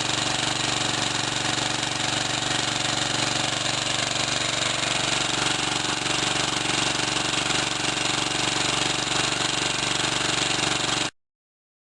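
Small Briggs & Stratton engine running steadily on wood gas alone, its carburettor's main jet shut off completely. The sound cuts off suddenly near the end.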